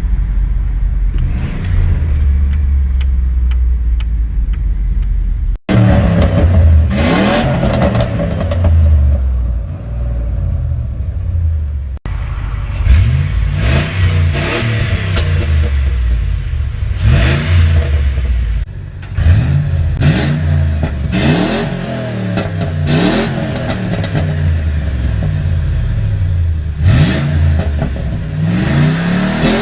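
1997 Ford F-150's 4.6L Triton V8 running through short equal-length headers and an aftermarket exhaust. It first idles with a steady deep rumble, then cuts abruptly to repeated free revs, the pitch climbing and falling with each blip, about every one to two seconds.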